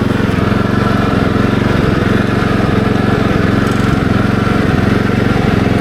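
Small engine of a Kubota SPJ400 walk-behind rice transplanter running steadily at an even speed.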